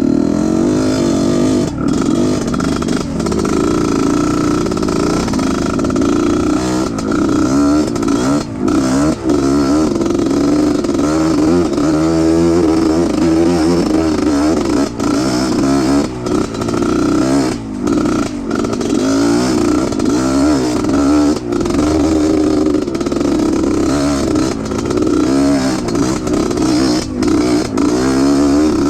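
Off-road trail motorcycle engine running, its pitch rising and falling as the throttle is worked, with brief dips in level.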